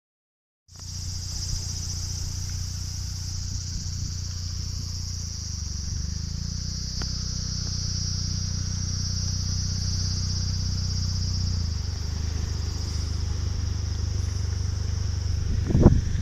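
Mazda RX-7 FD3S's twin-rotor rotary engine idling steadily under a loud, continuous high drone of insects. A thump comes near the end.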